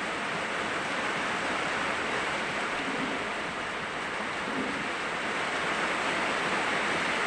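Heavy rain falling, a steady even hiss of rain.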